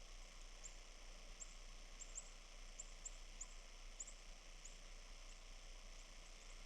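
Faint, very high, short bird chirps, a dozen or so at irregular intervals, over a faint steady hiss.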